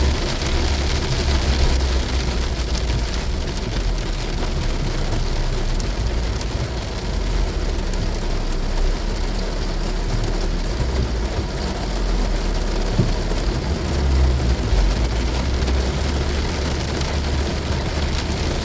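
Heavy rain drumming on a moving car, with the steady low rumble of the car and road underneath.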